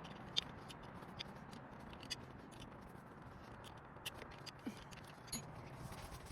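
Scattered light metallic clicks and scrapes of small engine parts and hand tools being handled while the oil filter cover goes back on a dirt bike engine. A few sharp ticks are spaced irregularly over the seconds.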